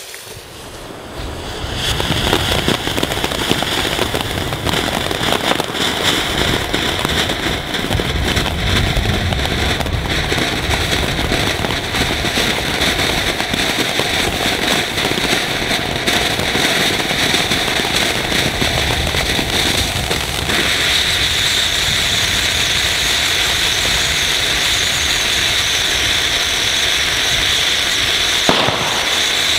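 Weco 'Ocean of Lights' fountain battery burning: a loud, steady hissing spray of sparks that builds up over the first two seconds. About twenty seconds in, the hiss changes and turns brighter as a new effect takes over.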